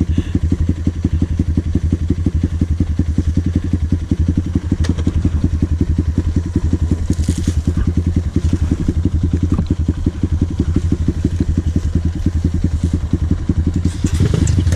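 Dirt bike engine running steadily under way, with a fast, even pulse of firing strokes. It gets louder about a second before the end.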